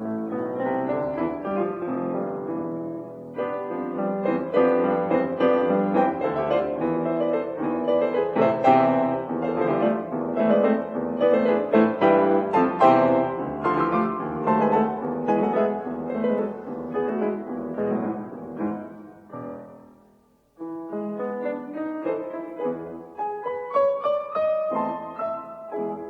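Piano playing a classical-style piece with many quick notes, breaking off briefly about twenty seconds in before starting again.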